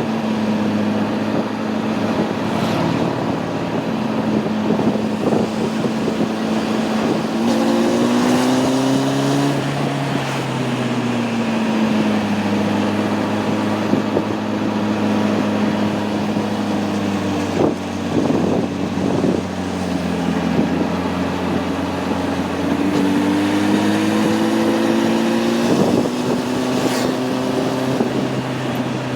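Honda CB600F Hornet's inline-four engine running on the move, its pitch climbing about a quarter of the way in and again near the end and dropping back in between as the revs rise and fall, with wind rush over it.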